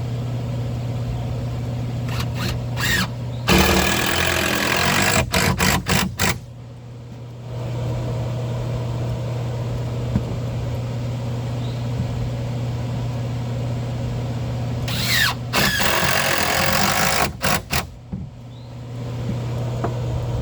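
Power driver with a T25 bit sinking screws into wood: two runs of a few seconds each, one a few seconds in and one near the end, each finished with a few short bursts as the screw seats. A steady low hum runs underneath.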